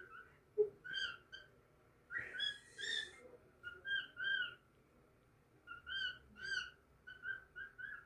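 Cockatiel whistling a run of short, clipped notes in quick groups, with a harsher, scratchier call about two seconds in. A brief low thump sounds just under a second in.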